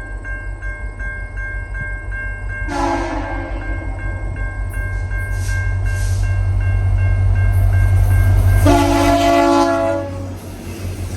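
VIA Rail F40PH locomotive's K3LL three-chime air horn sounding for the crossing: a short blast about three seconds in and a longer blast near the end. Under it a level-crossing bell dings steadily, and the locomotive's rumble grows louder as it approaches.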